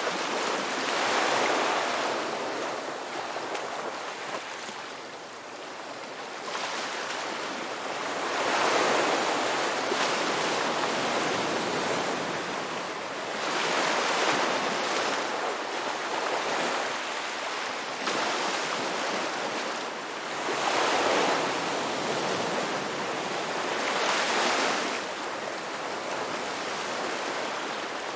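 Ocean waves breaking and washing up on a rocky beach, surging in swells every few seconds with a steady hiss of surf between them.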